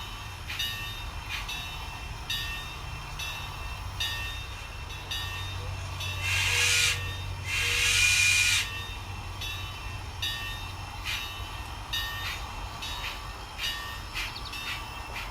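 Sound decoder of a model 2-8-0 steam locomotive chuffing slowly while switching cars, its chuffs coming as a run of short, unevenly spaced beats. About 6 and 8 seconds in come two loud, hissing blasts of steam sound.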